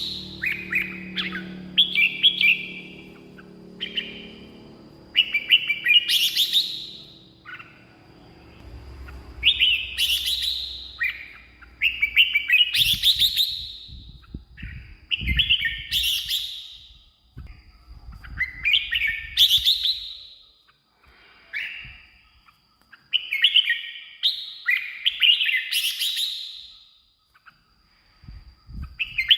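Red-whiskered bulbul singing: short, loud phrases of several quick, bending whistled notes, repeated every two to three seconds.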